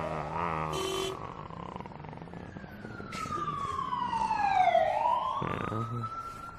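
Cartoon sound effects: a long whistling tone that slides down for about three seconds and then glides back up, with a few short noisy bursts along the way.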